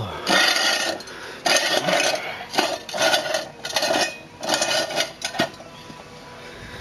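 BMW factory scissor jack being wound up by its handle: a metallic scraping clank about once a second, five times, then it stops about five seconds in.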